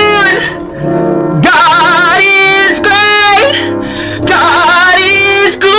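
Music with a loud solo singing voice holding long notes with heavy vibrato, in phrases broken by short pauses, over a steady low accompaniment.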